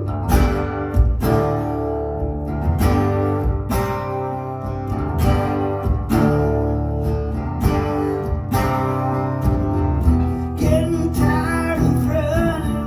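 Acoustic guitar strumming chords at a steady pulse in an instrumental break of a song, played live. A wavering melody line comes in over it in the last couple of seconds.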